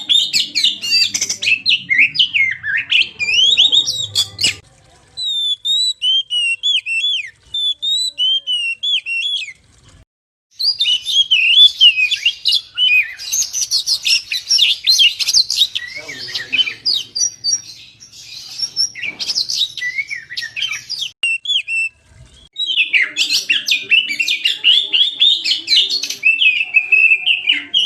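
Oriental magpie-robin (kacer) singing a fast, varied stream of high whistles and chirps. The song comes in long runs broken by brief pauses, at about 5, 10 and 22 seconds in.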